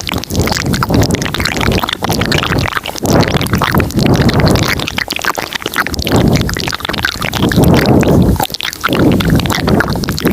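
Layered ASMR mouth sounds close to the microphone: many overlapping clicks and smacks over a low rumbling wash that swells and dips every second or two.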